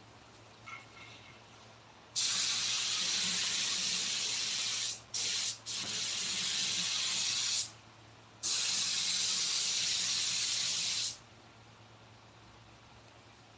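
Compressed air hissing from a spray nozzle in several long bursts of two to three seconds each, with short breaks between them.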